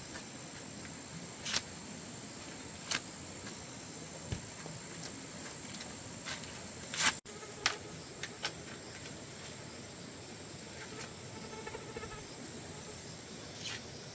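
Steady high-pitched insect drone under scattered sharp clicks and snaps, the loudest about halfway through, with a faint buzz like a passing fly near the end.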